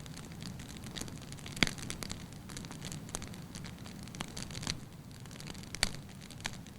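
Burning logs crackling: irregular sharp pops and snaps over a steady low hiss of the fire, with two louder snaps, one about a second and a half in and one near the end.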